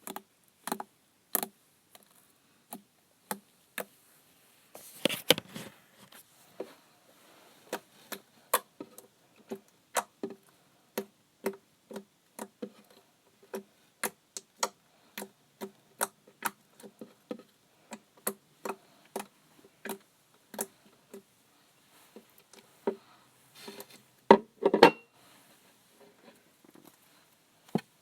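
Slime being poked and pressed with the fingers, making a steady run of short sticky clicks and pops, about two a second, with a longer squelch about five seconds in and a louder squelch near the end.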